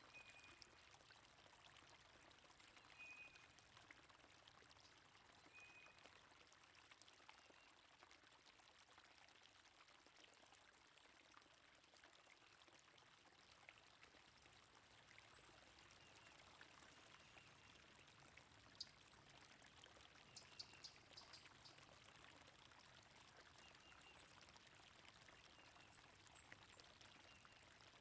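Faint, steady flowing water, with short bird chirps scattered through it, more of them and higher-pitched ones in the second half.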